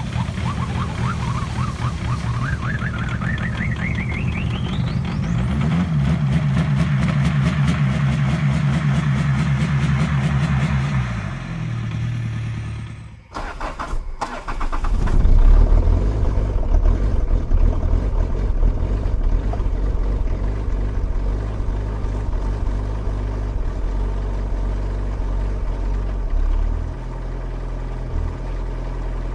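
Diesel car engine running with a whine that rises over the first few seconds, held steady, then dying away; after a break another diesel cranks briefly, catches with a loud burst about fifteen seconds in and settles into an idle.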